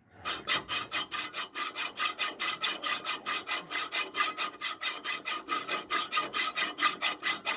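Hand hacksaw cutting through a broken steel lower shock-mount stud on a leaf-spring mount, in quick, even strokes of about five a second.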